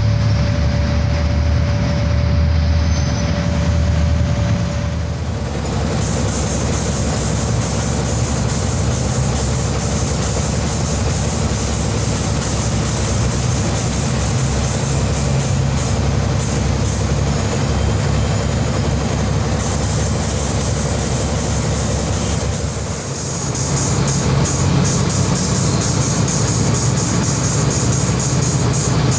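Heavy diesel engines of a dump truck and loading machinery running steadily, with a change in the sound about six seconds in, when a steady tone stops and a fast high ticking begins.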